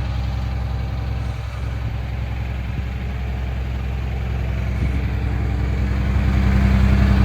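Diesel engine of a 2009 Blue Bird front-engine bus idling steadily, growing louder from about five seconds in.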